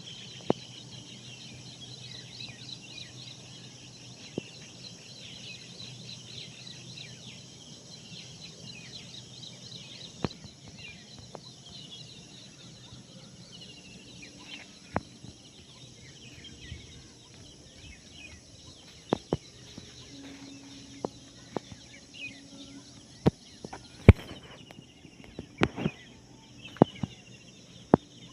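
Many small birds chirping and twittering together in a morning chorus. Sharp clicks or knocks cut in now and then, more often near the end, with the loudest about 24 seconds in.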